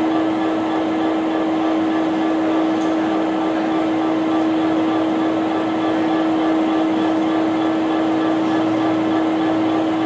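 Diesel train running steadily at the platform: an even mechanical rumble of engine and cooling fans with a constant hum.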